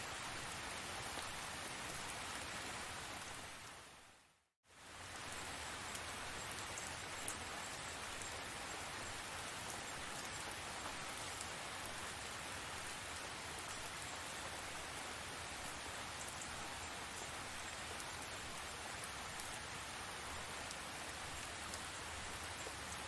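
Steady rain falling. About four seconds in it fades briefly to silence and then comes straight back, like an edit join in a loop.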